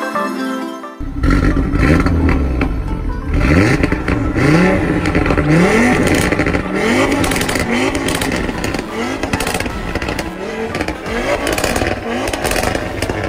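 Performance car with a custom exhaust, most likely an Audi RS3's five-cylinder engine, revving hard over and over: about nine quick rises in pitch, each dropping back, roughly once a second. Electronic music plays for the first second before the engine sound cuts in.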